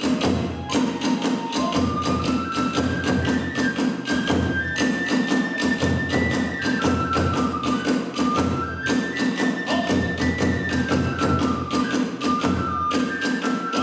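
Kagura hayashi music: drums and clashing hand cymbals keep a fast, steady beat under a bamboo flute melody that climbs and falls in steps.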